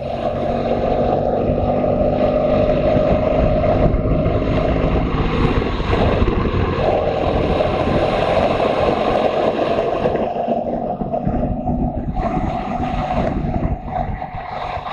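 Motorcycle engine running steadily on the road, with heavy wind noise on the microphone; the wind noise eases for a couple of seconds about ten seconds in.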